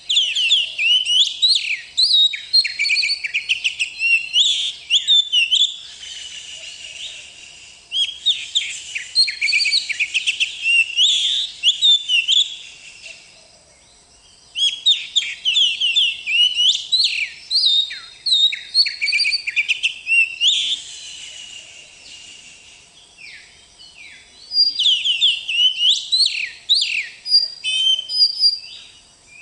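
Oriental magpie-robin (kacer) singing in four long bouts of rapid, varied whistled phrases, with short pauses between bouts.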